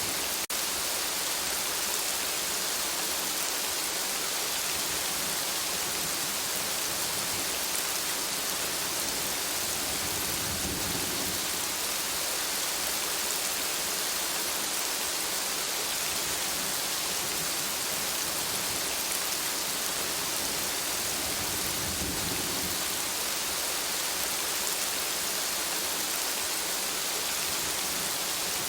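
Steady rain falling in an even hiss, with two soft low rumbles, about a third of the way in and again about three quarters in. The sound drops out briefly just after the start.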